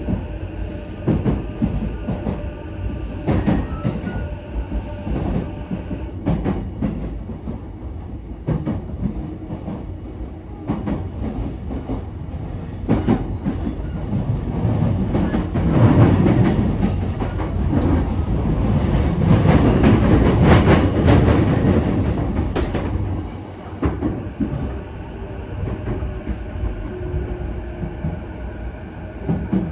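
Inside a JR East E233-5000 series electric commuter train running: a steady rumble of wheels on rail with repeated clicks as they cross rail joints. The rumble swells into louder rushing noise for several seconds in the middle, and a faint motor whine drops slightly in pitch near the end.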